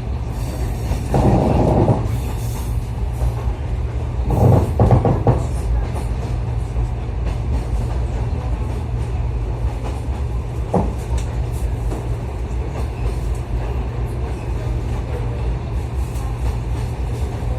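Passenger train running on the rails, heard from inside the carriage: a steady low rumble, with two louder spells about one and four seconds in and a single sharp knock near the middle.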